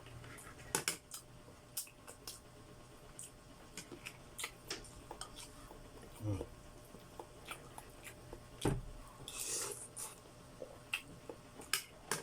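Scattered light clicks and clinks of dishes and utensils during a meal, with a few soft low thumps and a brief hiss about nine seconds in.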